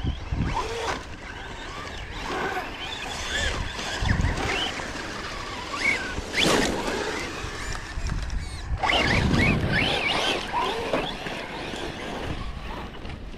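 Electric RC truck's brushless motor whining up and down in pitch as it is driven hard over dirt and gravel, with louder bursts around four, six and a half, and nine seconds in. Wind rumbles on the microphone underneath.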